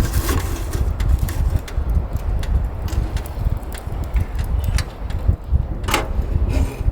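Strong wind buffeting the microphone: a heavy, uneven low rumble, with scattered light clicks and one sharper knock about six seconds in.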